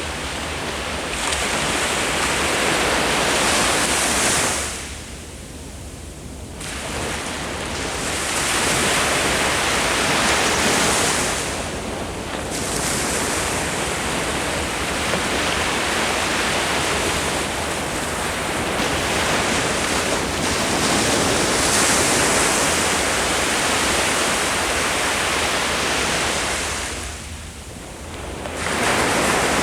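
Ocean waves breaking and washing up the beach, a steady surf rush that swells and ebbs, with two clear lulls between breakers, one about five seconds in and one near the end.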